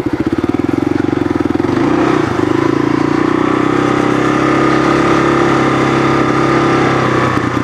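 Kawasaki KLR650's single-cylinder engine running at low revs with an even pulse. About two seconds in, the revs pick up and the engine holds a steadier, higher note as the bike rides on.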